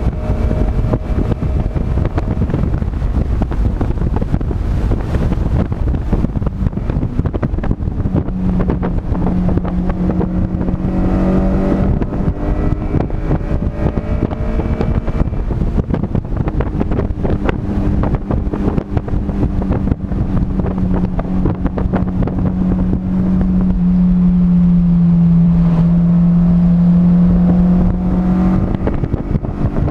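Car engine driven hard on a racetrack, with heavy wind and road noise. Its pitch climbs as it accelerates a couple of times, then holds a steady deep note for long stretches, loudest about three-quarters of the way through.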